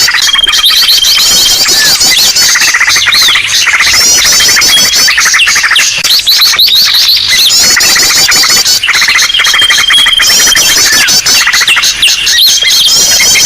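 Bird-lure recording: a loud, dense chorus of many small birds chirping, trilling and calling at once, with a steady high whistled note that comes back every few seconds as the mix repeats. It is a noisy 'ribut' lure mix meant to draw wild birds in.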